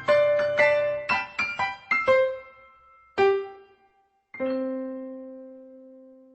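Solo piano music: a quick run of notes, then two single notes about a second apart, the last one left to ring out and fade as the piece ends.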